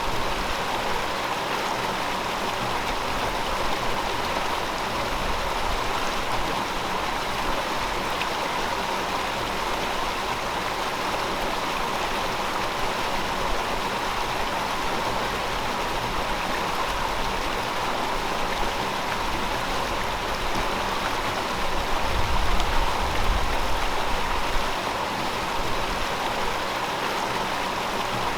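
River water flowing over rocks, a steady rushing babble, with a brief swell of low rumble about three-quarters of the way through.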